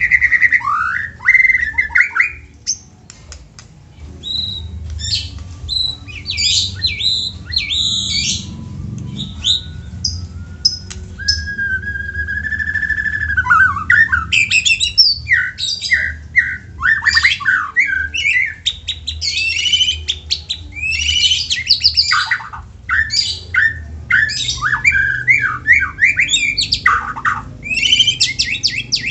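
White-rumped shama (murai batu) singing a rapid, varied song of chirps, trills and whistled phrases, with a longer held whistle, slightly rising, about midway through.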